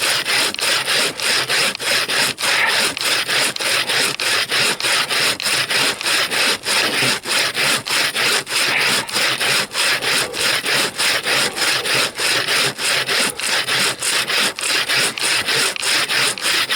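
Bow saw cutting through a fir trunk in steady back-and-forth strokes, about three a second, each a dry rasp.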